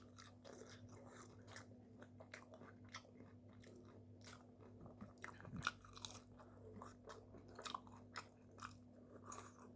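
Faint chewing and crunching of food, irregular soft crackles and clicks throughout, over a faint steady low hum.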